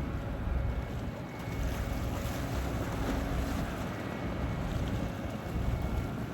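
Wind buffeting the microphone over the steady rumble of boat engines and water in a busy harbour channel.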